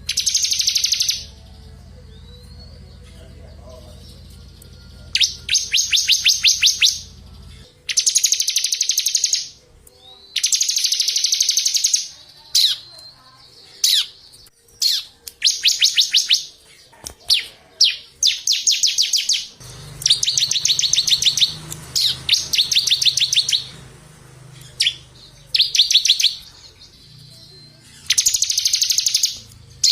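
Small songbirds singing, recorded for training competition birds: fast, high, buzzy trills of one to two seconds each, repeated with short pauses, with brief sharp rising whistles in between.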